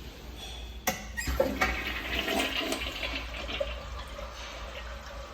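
OTTO toilet being flushed: a sharp click about a second in, then water rushing through the bowl.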